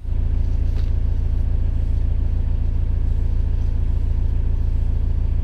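Narrowboat engine running steadily under way, a loud low rumble that starts abruptly.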